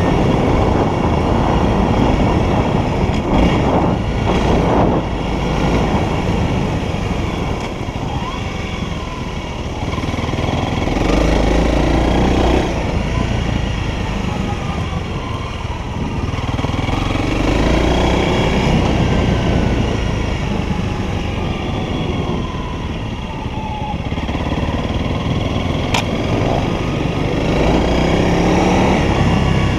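Honda CRF300L's single-cylinder four-stroke engine running under way, its revs rising and falling repeatedly as the bike speeds up and eases off, with wind rush over the microphone. There is one sharp click near the end.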